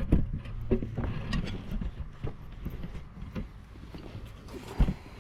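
Hand drywall saw being jabbed and worked into wood to start a plunge cut: irregular knocks and short scrapes, the loudest knocks right at the start and again near the end.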